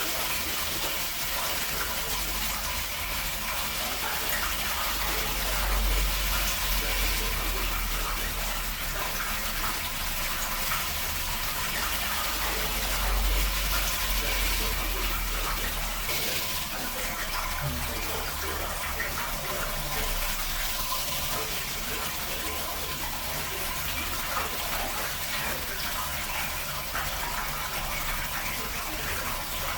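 Water running steadily from a tap, splashing for a parrot's bath. A deeper rumble joins in from about five seconds in and fades out about ten seconds later.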